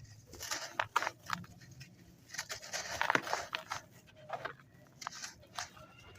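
Dry, crispy sand clumps crumbling and being crushed, giving irregular gritty crunches and crackles that come in several bunches with short quieter gaps.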